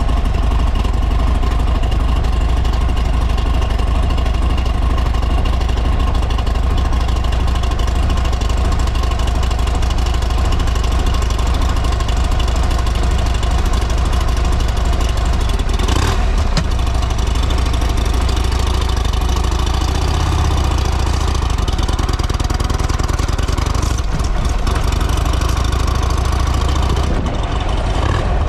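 Buell XB12R's air-cooled V-twin idling steadily through its exhaust, with one short sharp pop about halfway through.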